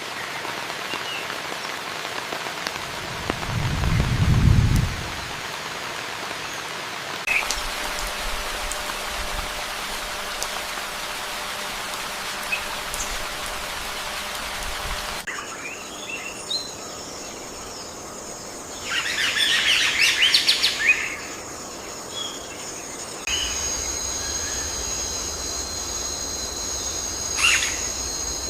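Outdoor nature ambience: a steady rain-like hiss with scattered bird chirps. A low rumble comes about four seconds in, and a louder cluster of bird calls about two-thirds of the way through. The background changes abruptly three times, and steady high tones join it in the second half.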